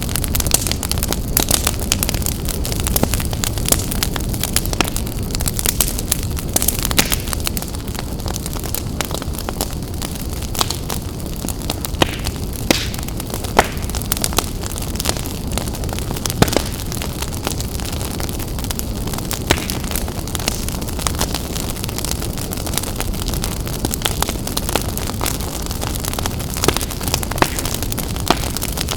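Wood fire burning in a fireplace: a steady low rumble and hiss of flames with frequent irregular crackles and sharp pops from the burning logs.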